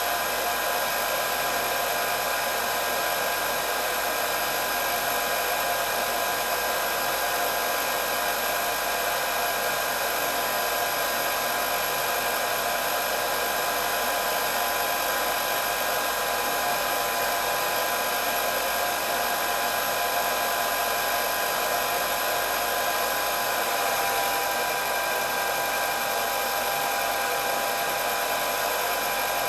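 Electric hair dryer running steadily, a constant rush of blown air with a steady motor whine held at one pitch.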